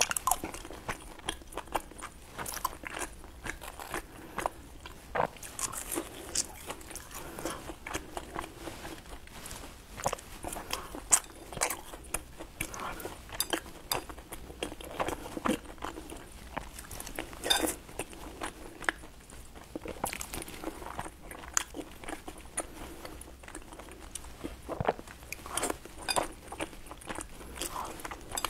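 Close-up eating sounds: a person chewing and smacking on sticky glazed glutinous rice balls (tangyuan), with many short, sharp mouth clicks throughout.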